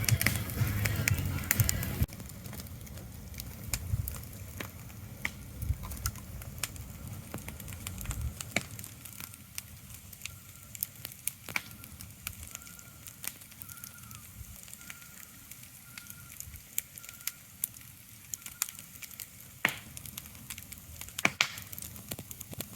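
Irregular sharp crackles and pops over a soft hiss. A louder low rumble cuts off abruptly about two seconds in.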